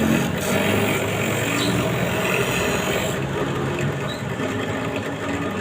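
Small electric power-tool motor, likely a power sander on the wooden cage base, running steadily with its pitch shifting slightly under load.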